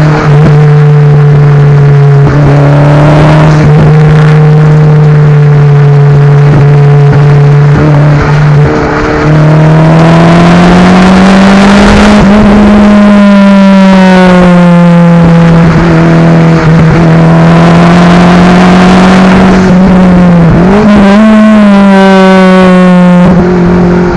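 Daihatsu Copen L880K's 660 cc turbocharged four-cylinder engine and exhaust under load on an uphill drive, heard from the rear at the muffler. The engine note holds steady, steps up in pitch about nine seconds in, then rises and falls with the throttle, with a brief sharp dip and climb near the end.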